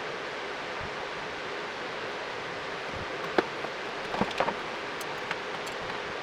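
Steady hiss with a few light clicks and taps from work on a motorcycle's headlight and front cowl: one sharp click about three and a half seconds in, then a quick cluster of clicks about a second later.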